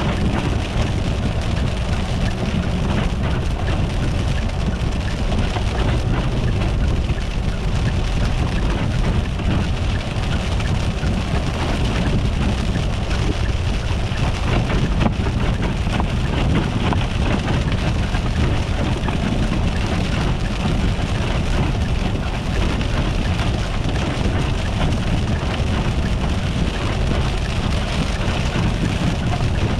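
Steady road noise of a car driving on a wet, icy road: a low rumble with a continuous hiss like rain.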